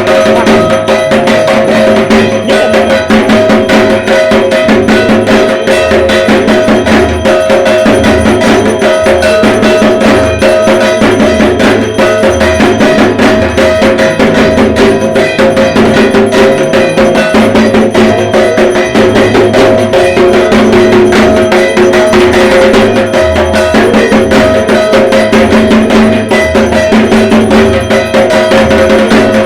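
Dhak, the Bengali barrel drums of Durga Puja, beaten in a fast, unbroken rhythm, with a steady metallic ringing sounding over the strokes.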